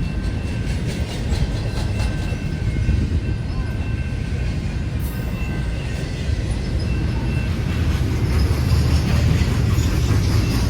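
Freight train rolling past: a steady low rumble of rail cars with wheels clicking over rail joints, and a faint high wheel squeal running under it.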